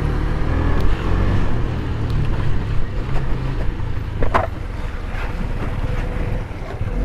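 KTM Duke 250's single-cylinder engine running as the motorcycle is ridden, with wind buffeting the microphone. A brief sharp sound stands out about four seconds in.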